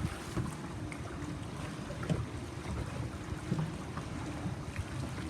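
A small boat under way: a steady low engine hum, with water washing against the hull and wind on the microphone.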